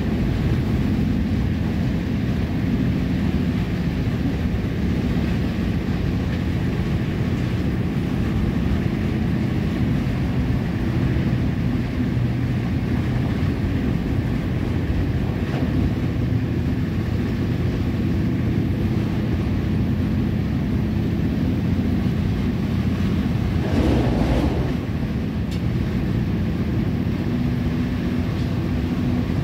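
Passenger train running along the track, heard from inside the carriage: a steady low rumble with a droning hum, briefly louder about 24 seconds in.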